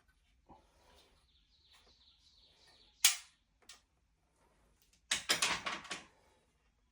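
A loud, sharp knock about three seconds in, a smaller knock just after, then a quick run of clattering knocks lasting about a second near the end.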